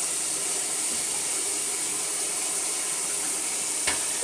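Bathtub tap running steadily, water pouring into the tub, with a single sharp click near the end.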